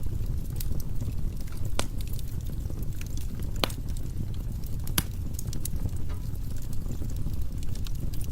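Wood fire burning in a fireplace: a steady low rumble of flames with irregular sharp crackles and pops from the logs, the loudest pops about three and a half and five seconds in.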